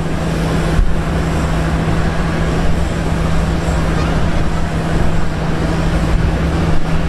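Steady outdoor airport noise: a constant rushing with a steady low hum underneath and uneven low rumble.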